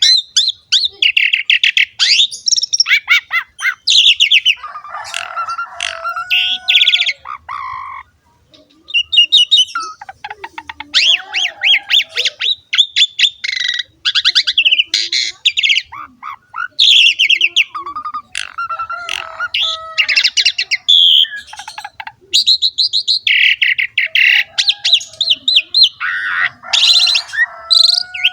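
Asian pied starling (jalak suren) singing a long, varied song: rapid chattering and rattling phrases mixed with lower whistled notes, with a short pause about eight seconds in.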